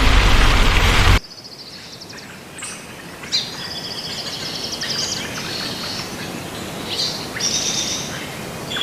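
A loud rushing noise cuts off suddenly about a second in, after which birds call and chirp in short high trills and whistles, several in turn.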